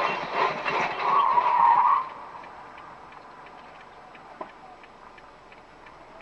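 A car crash: loud knocks and impacts, with a tyre skid screeching for about a second, then it suddenly drops away about two seconds in. After that only a faint, regular ticking and low background noise remain.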